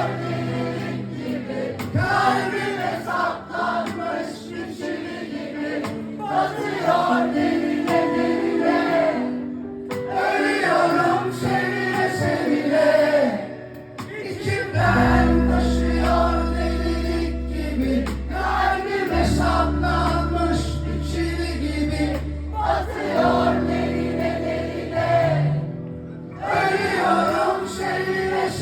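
Live band music with sung vocal phrases; deep sustained bass notes come in about halfway through.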